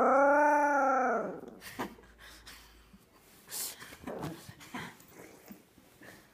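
A dog gives one drawn-out whining howl that rises and then falls in pitch, lasting about a second and a half at the start. Fainter scattered short noises follow.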